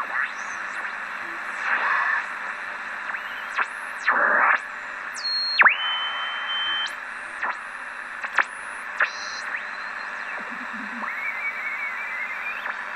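Hiss of the 80-metre amateur band from a home-built regenerative valve receiver, crossed by heterodyne whistles that slide in pitch. One whistle drops and holds a high tone for about a second before sweeping away, and short bursts of static or garbled signal come and go.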